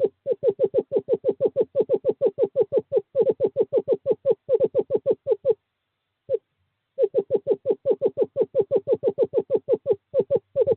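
Male screech owl calling to a female: a long, even series of short hooting notes at one pitch, about six or seven a second. The run pauses about halfway through, then starts again. This is a courtship call drawing the female to the nest box.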